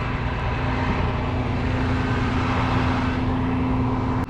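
Truck engine running steadily: an even rumble with a constant low hum.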